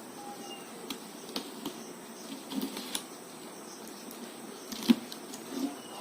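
Scattered clicks and knocks of a ceiling fan's box and packing being handled during unboxing, irregular, with one louder knock near the end.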